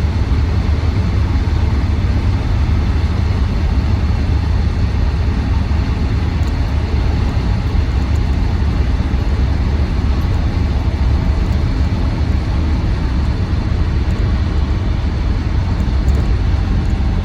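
Land Rover Defender 90 TD5's five-cylinder turbodiesel and road noise heard inside the cab while cruising: a steady low drone.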